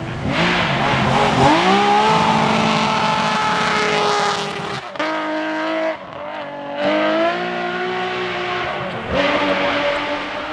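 BMW rally car engine revving hard on a rally stage, its pitch climbing and holding high, then dropping and climbing again a few times.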